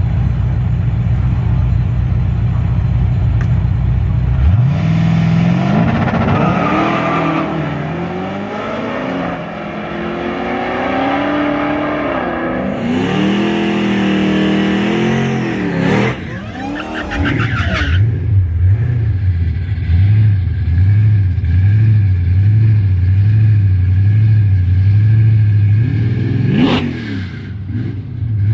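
Twin-turbo Dodge Demon V8 rumbling low, then revved up and down several times with rising and falling pitch. It then settles into a lumpy, loping idle, with one quick sharp throttle blip near the end.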